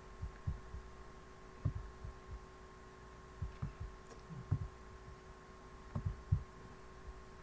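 Faint, irregular low thumps from bumps at the desk and microphone, over a steady faint electrical hum.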